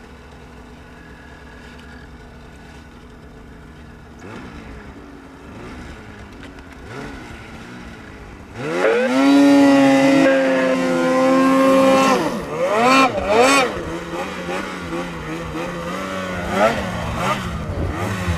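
Snowmobile engine, faint at first, then revving up sharply about halfway through and holding a high, steady pitch at full throttle for a few seconds. It blips twice and drops back to a lower, steady running note.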